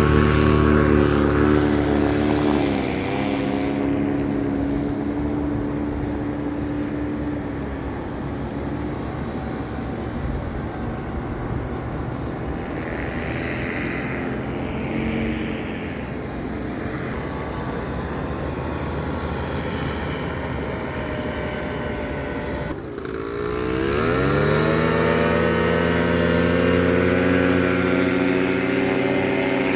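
A motor engine running steadily. Its pitch dips briefly about three seconds in, then drops sharply at about twenty-three seconds and climbs again as it revs back up.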